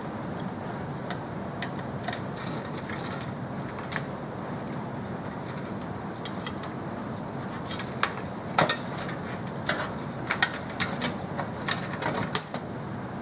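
Scattered sharp clicks and light knocks over a steady low background hum, the clicks coming thicker and louder in the last five seconds.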